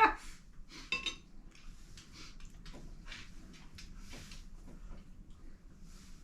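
Cutlery and dishes clinking and scraping, with one ringing clink about a second in followed by a run of soft, short scrapes.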